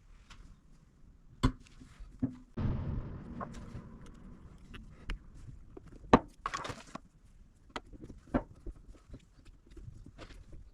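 Hand work on car suspension parts: scattered clicks, clinks and knocks of tools and metal parts being handled, with a rougher scraping stretch about three seconds in and one sharp loud click about six seconds in.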